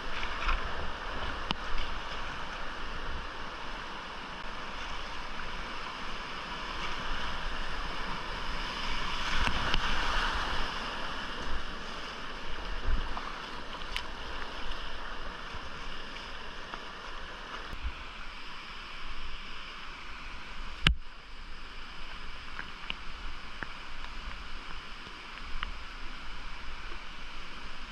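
Steady rush of whitewater in a small creek, heard from a kayak, swelling a little about a third of the way in. Occasional short knocks are heard, with one sharp knock about three-quarters of the way through.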